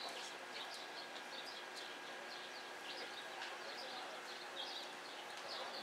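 Small birds chirping, short high chirps repeating irregularly over a steady background noise.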